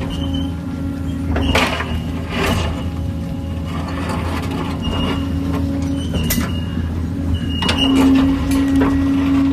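Kobelco excavator's diesel engine running steadily, with several sharp knocks and brief high squeaks from the machine at work. The engine note strengthens about eight seconds in, as under heavier load.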